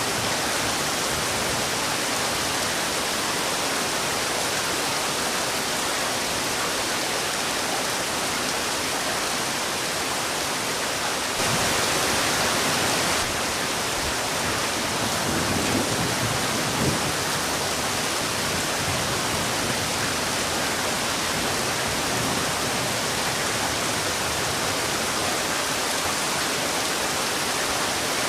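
Heavy rain falling in a steady, dense hiss. There is a brief louder patch about eleven seconds in, and a low rumble with a small knock about fifteen to seventeen seconds in.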